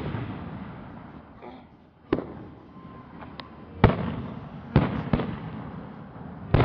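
Aerial firework shells bursting: a series of sharp booms, one at the start and more about two, four and five seconds in, each trailing off in a long rumbling echo.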